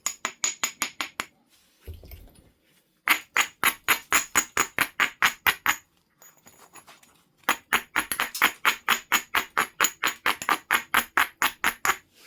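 Flint nodule being worked with a knapping tool: quick, even strokes of stone on flint, about six a second, coming in three runs with short pauses between, each stroke with a bright clinking ring.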